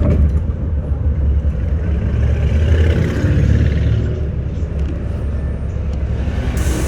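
Bus running, a steady low engine rumble with a hissing noise that swells for a couple of seconds in the middle.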